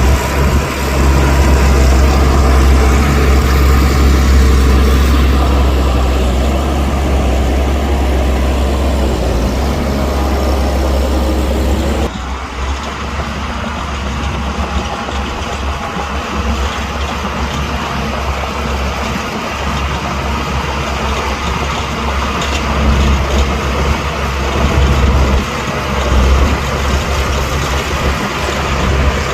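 Heavy diesel engines of earthmoving machinery running steadily, with a deep low hum. The sound changes abruptly about twelve seconds in, turning less bright but still a running engine.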